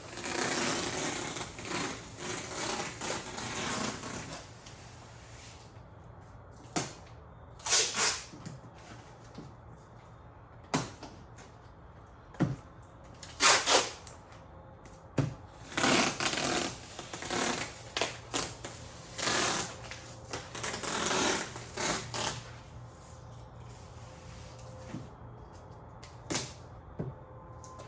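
Tape being pulled off the roll and torn in repeated strips: a long stretch of ripping at first, then a series of separate pulls and short sharp rips.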